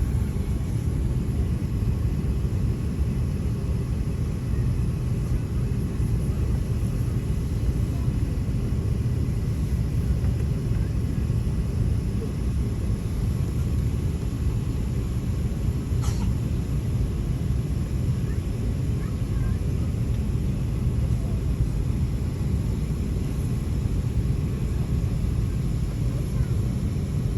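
Steady low rumble of cabin noise inside an Airbus A380 airliner on the ground before take-off, with one faint click about 16 seconds in.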